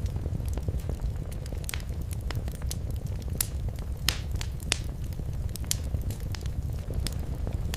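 Wood fire in a fireplace crackling and popping in irregular sharp snaps over a steady low rumble of the flames, with a few louder pops near the middle.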